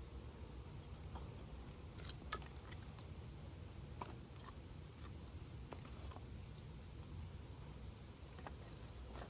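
Campfire crackling: burning wood giving irregular sharp pops, a few louder ones about two and four seconds in, over a low steady rumble.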